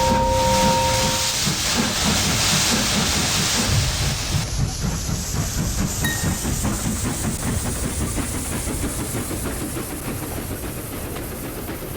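Steam locomotive sound effect: rhythmic chuffing with hissing steam, slowly fading.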